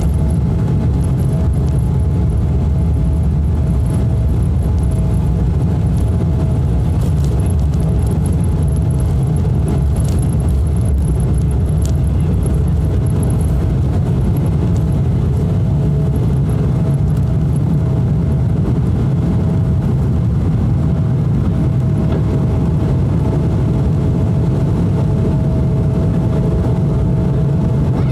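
Steady drone of a Boeing 777-200's jet engines and rushing air heard inside the cabin: a deep rumble with a steady mid-pitched hum over it.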